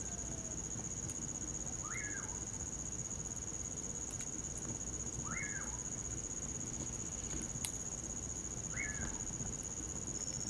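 Common pauraque (bacurau) calling its whistled song three times, each a quick rise and fall, about every three and a half seconds, over the steady high trill of crickets.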